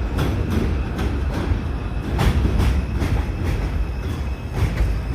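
New York City subway train running along the track: a low rumble with the wheels clacking over rail joints several times a second.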